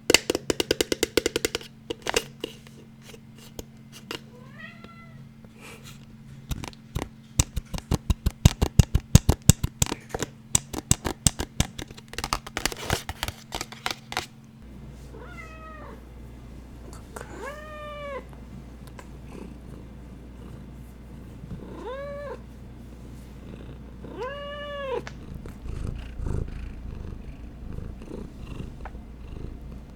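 Fast, rapid tapping and scratching on hard objects in quick runs, stopping about halfway through. A cat then meows four times in short, rising-and-falling calls, and a low rumble comes near the end.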